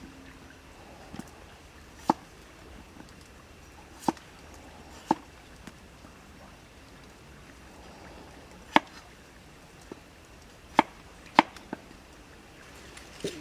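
Single chopping strikes with a blade, about seven sharp blows spaced unevenly, with pauses of one to three seconds between them and the loudest ones in the second half.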